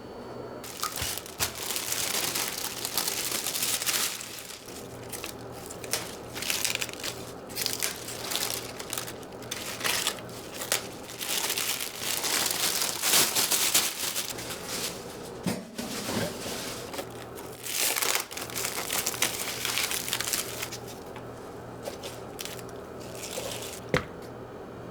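Packaging crinkling and rustling as it is handled, in irregular bursts, over a faint steady low hum.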